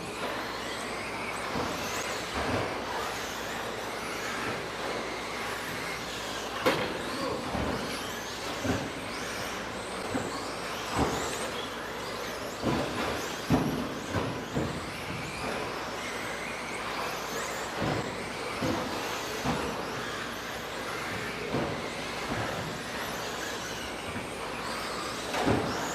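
Electric RC stadium trucks with 13.5-turn brushless motors racing around the track: a steady wash of motor whine and tyre noise, broken by frequent sharp knocks and clacks.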